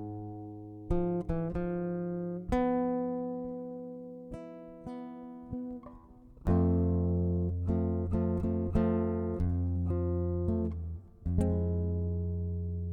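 Guitar playing a slow instrumental introduction: single plucked notes and chords that ring out and fade. About halfway through it moves to fuller chords with a deep bass.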